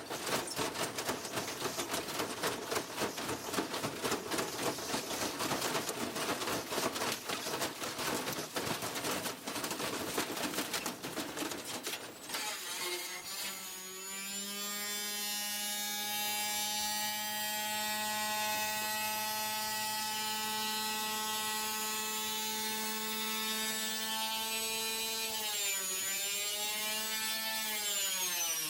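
A washing machine rattling and clattering hard for about twelve seconds, then giving way to a steady high motor whine that dips in pitch and recovers twice near the end.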